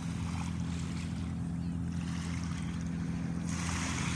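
Steady low drone of a boat's engine offshore, with small waves washing in at the water's edge; one wave swells louder near the end.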